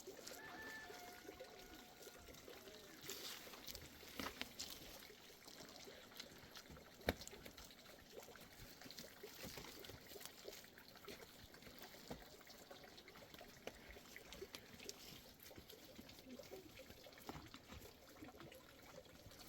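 Faint trickling water with scattered small clicks and one sharp knock about seven seconds in.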